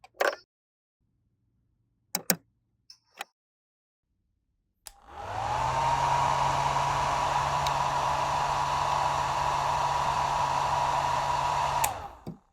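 A few light clicks of handling, then about five seconds in a hair dryer switches on. Its whine rises quickly and settles into a steady tone over a blowing rush. It runs for about seven seconds and then switches off with a click.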